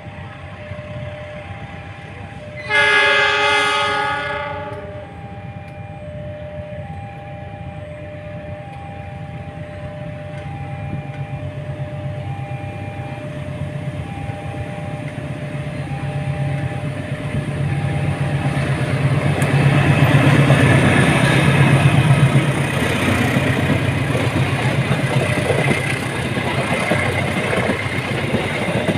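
A train's horn sounds one loud blast of about two seconds, over a level-crossing alarm beeping a repeating two-note tone. The train then draws near and passes, its rumble and wheel clatter building to a peak past the middle and staying loud.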